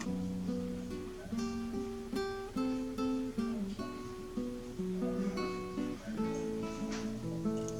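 Background music: an acoustic guitar played with plucked notes and strummed chords.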